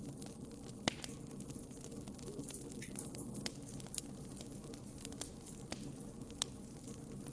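Wood fire crackling, with sharp pops scattered irregularly through it over a steady low rush of burning, two louder pops about a second in and near the end.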